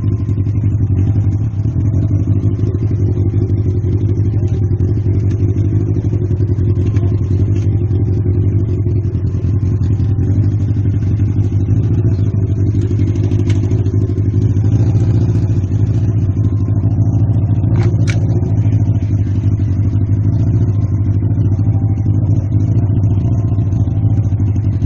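Motorcycle engine running at a steady speed, a constant drone with no revving, and a brief click about eighteen seconds in.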